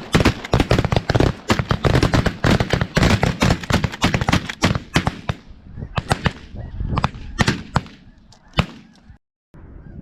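Rapid volley of shotgun fire from several hunters shooting at snow geese, dozens of shots close together and thinning out towards the end. Snow geese honking underneath.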